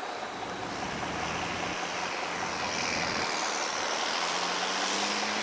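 Low vehicle engine hum over a steady rushing noise, the hum rising slightly in pitch near the end.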